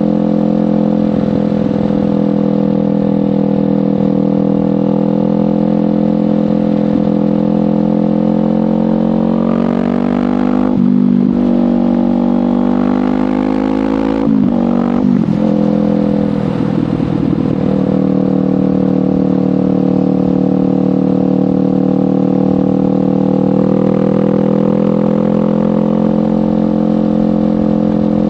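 Kawasaki Ninja 500 parallel-twin engine through a LeoVince GP Corsa Evo exhaust, riding at steady revs, then accelerating about a third of the way in, with the pitch rising and dropping sharply twice as it shifts up. It then settles back to a steady cruise.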